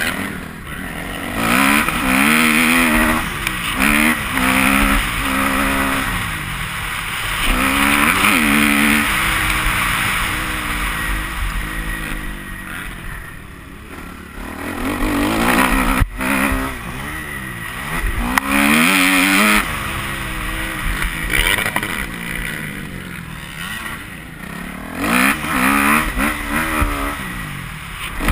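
Kawasaki KX250F four-stroke motocross bike being ridden hard, its engine note climbing and dropping over and over as the throttle opens and shuts through the gears. There is a brief lull in the revving partway through and a single sharp knock about sixteen seconds in.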